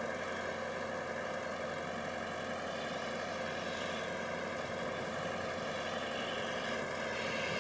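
An engine running steadily: an even, droning hum with no change in pitch.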